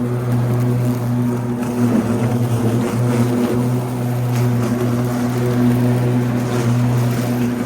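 Ryobi 80V battery-electric riding lawn tractor mowing, its blade motors running with a steady hum that wavers for a moment between about two and three seconds in.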